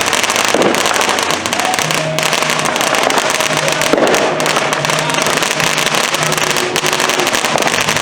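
Dense, continuous crackling and popping of many consumer fireworks and firecrackers going off at once, with no single bang standing out.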